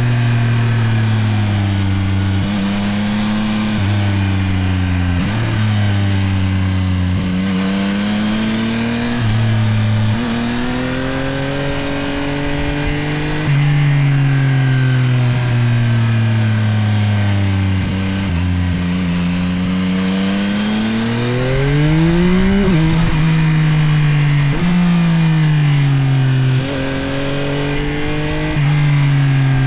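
Yamaha CP3 890 cc inline-three engine of a Tracer 9 GT+ motorcycle under way, its note climbing slowly with speed and then dropping sharply again and again as it is worked through the gears, with one hard climb about two-thirds of the way through.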